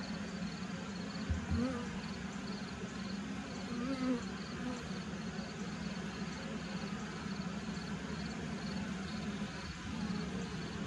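Honeybees from an open top-bar hive buzzing as a steady low hum, with a single soft thump about a second in.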